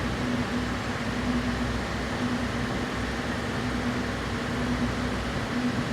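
Steady mechanical hum and whir of background machinery, with a low drone and a faint higher tone that wavers slightly.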